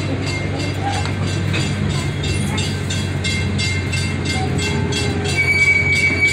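Small amusement-park tour train running along its track: a steady low drone with light, evenly repeated clicking, about two clicks a second. A thin, steady high whine comes in near the end.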